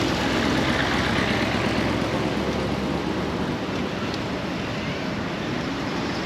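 Steady road-traffic noise with vehicle engines running, as at a busy market roadside.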